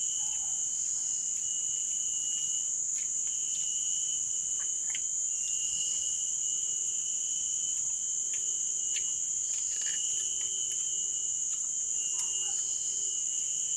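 Steady chorus of crickets and other insects: several high-pitched trills held without a break, with a few faint clicks over them.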